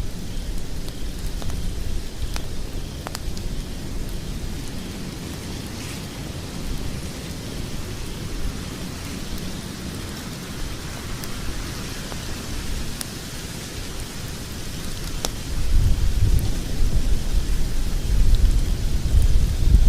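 Log fire in a fireplace crackling: scattered sharp pops and snaps over a steady low rush of the flames, the low rumble growing louder about three-quarters of the way in.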